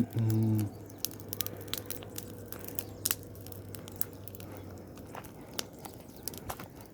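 Bonfire of dry branches burning, crackling with irregular sharp pops and snaps throughout. A short hum-like voice sound in the first half-second.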